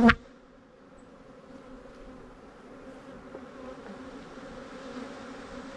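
Honeybees buzzing steadily around an open hive: a sustained hum from a large, defensive colony being broken down frame by frame. A brief sharp sound comes right at the start.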